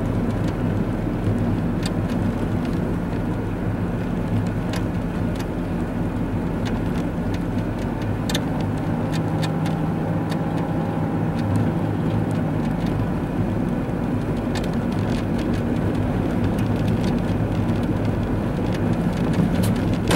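A car driving, heard from inside the cabin: a steady engine and road drone, with scattered faint ticks.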